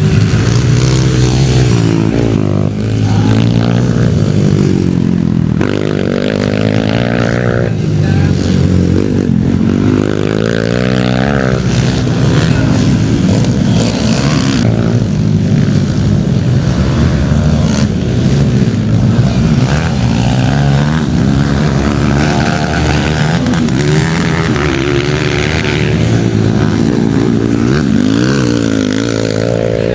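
Several motocross bikes' engines racing at once, each revving up and dropping back again and again as the riders work through the track.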